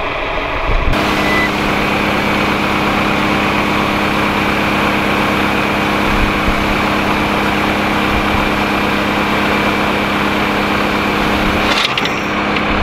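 John Deere 4450 tractor's six-cylinder diesel running steadily while it pulls a planter, a constant engine hum under a broad hiss. The sound gets fuller about a second in and dips briefly near the end.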